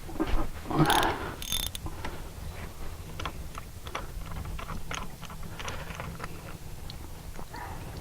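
Small clicks and rattles of hand work on an outboard motor with its cowl off, with two short hissing bursts a second or so in.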